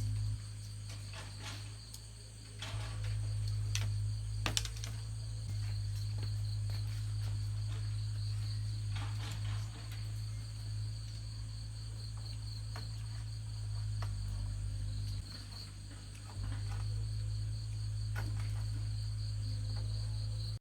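Crickets chirring steadily in a high, even drone, over a loud steady low hum that drops and returns a few times. A few light clicks, the sharpest about four and a half seconds in.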